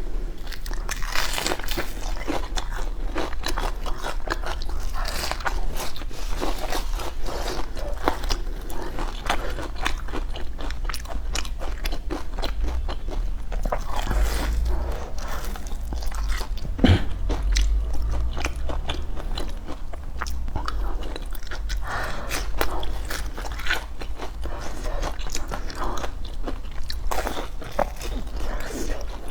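A person eating crunchy food close to the microphone: continual irregular crunching and chewing, with one sharper, louder crack about two-thirds of the way through.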